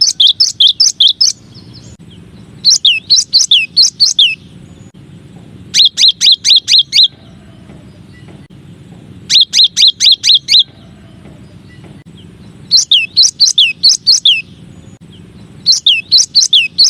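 Cinereous tit (gelatik batu) song: six phrases of quick, repeated high notes, each note sliding downward, with pauses of about two seconds between phrases. A faint steady low hum runs underneath.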